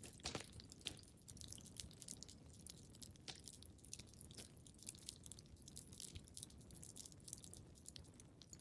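Fireplace fire crackling softly: irregular snaps and pops over a low, steady rumble, with a couple of louder pops about a second in.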